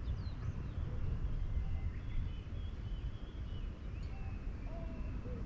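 Birds calling with thin, high whistled notes, some held and some short rising and falling glides, over a steady low rumble.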